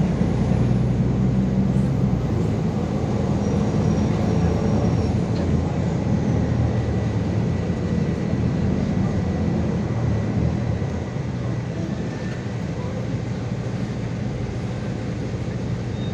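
A city bus running under way: a steady engine rumble and road noise, easing slightly about eleven seconds in.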